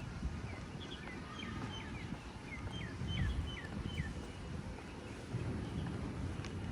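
Small birds chirping: a quick series of short, falling chirps for the first few seconds, over a steady low rumble.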